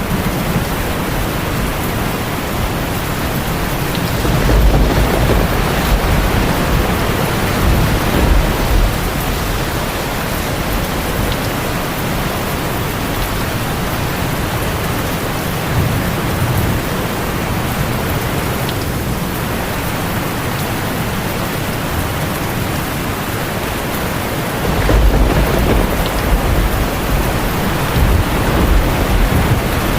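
Steady rain, an even hiss, with low rumbles that swell about four seconds in and again near the end.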